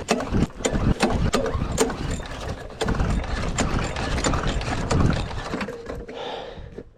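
Cooled small lawn mower engine being cranked with its recoil pull cord, turning over with a clatter of clicks and knocks but not catching. It is hard to start cold without starting fluid.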